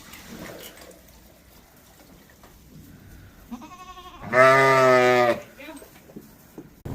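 Bleating from barn livestock: a short, high call about three and a half seconds in, then a loud, wavering bleat lasting about a second.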